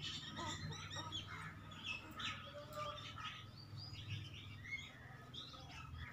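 Many small birds chirping and calling at once, in short overlapping chirps, over a low steady hum.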